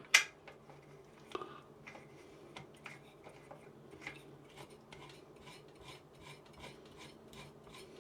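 Small metal parts of an overhead camera rig being handled and screwed together: a sharp click just after the start, then a long run of faint ticks and scraping.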